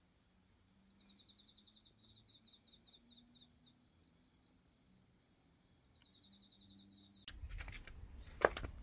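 Faint insect chirping in quick, even trains of short high pulses, twice. Near the end a louder outdoor background cuts in, with scuffs and a sharp knock.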